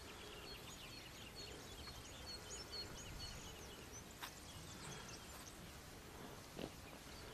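Small birds chirping, a quick series of short high notes, over a faint steady outdoor rumble, with a single sharp click about four seconds in.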